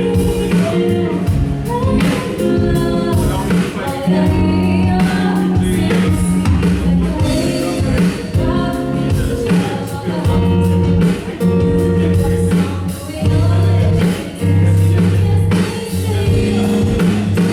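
Live band music with a singer: sung vocals over bass, guitar and drums.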